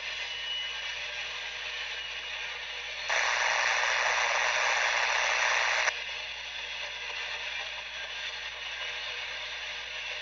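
Railroad scanner radio hissing with static, with a louder burst of static that switches on about three seconds in and cuts off about three seconds later.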